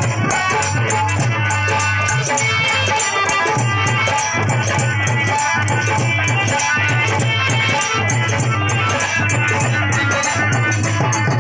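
Indian folk music played on harmonium and dhol: sustained reedy harmonium notes over a pulsing dhol beat, with rapid, continuous high percussion strokes.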